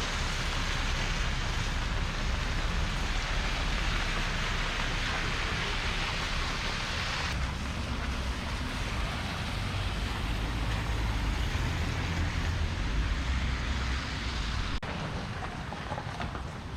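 Steady hiss of rain over a low vehicle rumble. The sound shifts abruptly about halfway through and again near the end.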